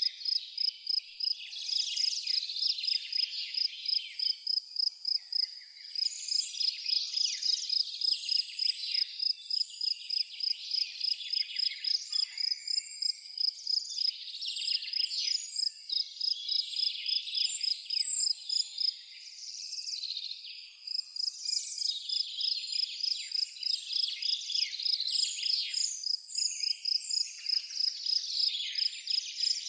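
Forest ambience: a cricket chirping in a high, evenly repeating pulse throughout, with several songbirds chirping and twittering over it.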